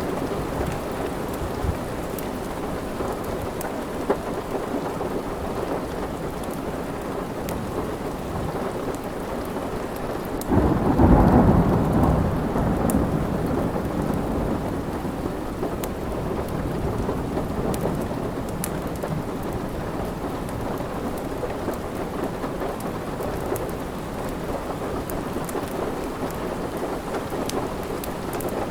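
Steady rain, with a low roll of thunder about ten seconds in that swells and fades away over a few seconds. Faint crackles from a wood fire are scattered over the rain.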